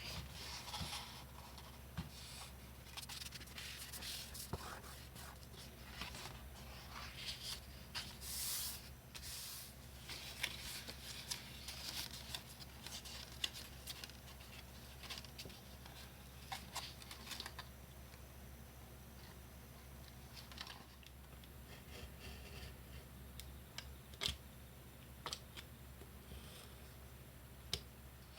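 Construction paper and card being handled and cut by hand: irregular rustling, scraping and small clicks and snips, over a steady low hum.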